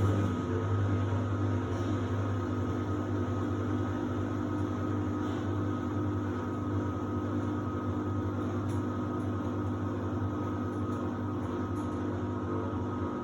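Samsung WD70T4047CE washer-dryer running with a steady electric motor hum.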